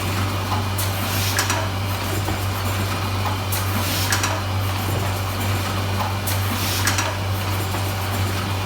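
Semi-automatic rigid box making machine running over a steady low hum, with a burst of noise from its working stroke about every three seconds, one for each box at about 21 boxes a minute.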